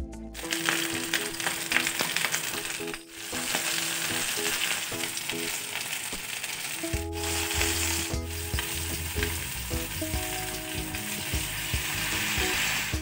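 Chicken pieces sizzling and crackling as they fry in hot oil in a nonstick pan, with a spatula stirring them at first. The sizzle breaks off briefly a few times. Soft background music with held notes plays underneath.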